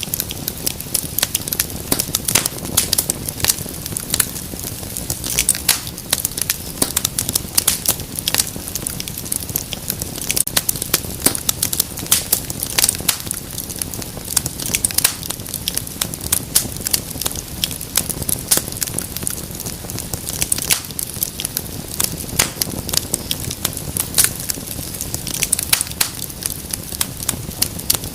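Wood fire crackling in a fireplace: dense, irregular sharp pops and snaps over a low, steady rumble of the burning.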